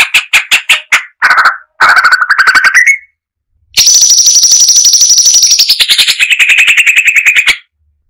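Cucak cungkok (brown-breasted bulbul) singing loud, fast strings of repeated harsh notes in three phrases with short pauses between; the longest phrase near the end steps down in pitch partway through.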